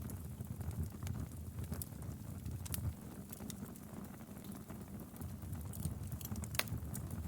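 Wood fire crackling in a fireplace: a steady low rumble of burning logs with scattered sharp pops, the loudest a little over six seconds in.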